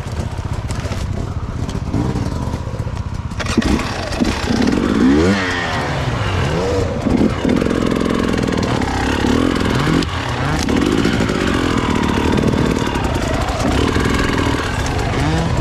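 Enduro motorcycle engine revving, its pitch rising and falling again and again, louder from about three and a half seconds in.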